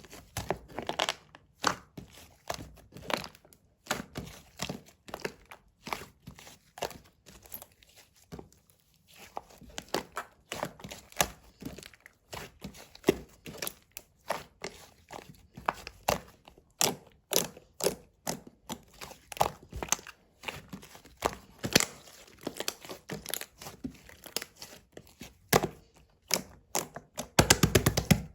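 Close-up handling sounds: irregular clicks, taps and crinkles, with a quick rattling run near the end.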